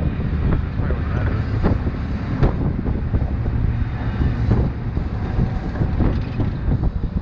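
Steady low rumble with wind buffeting the microphone, with a few faint knocks.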